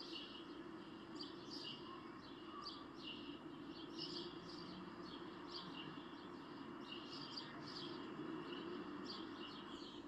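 Faint birds chirping: many short, quick calls scattered throughout, over a steady low background hiss.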